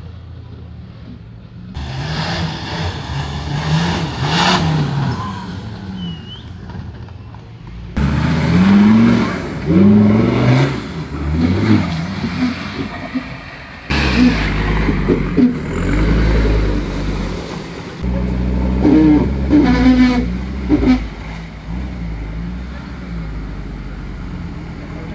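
Off-road 4x4's engine revving up and down again and again under load. The sound is split into several short clips, with abrupt cuts about 2, 8, 14 and 18 seconds in.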